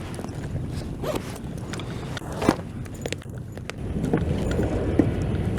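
Handling noises of gear being set out: light clicks, scrapes and a zipper-like rasp, with a sharper click about two and a half seconds in, over a steady low rumble.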